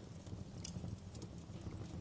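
Fireplace crackling: irregular sharp pops, a few a second, over a low steady rumble of burning.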